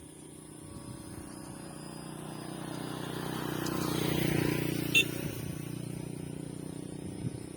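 Electric motor and propeller of a homemade polyfoam RC airplane buzzing steadily, growing louder to a peak about four seconds in and then fading as it passes. A single sharp click comes about five seconds in.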